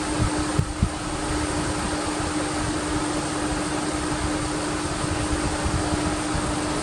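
Steady whirring, fan-like mechanical noise with a constant low hum, and a few soft knocks in the first second.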